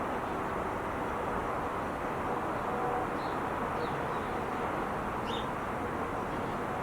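Steady roar of Interstate 5 freeway traffic, an even wash of tyre and engine noise. A few short, high bird chirps come through it about halfway in.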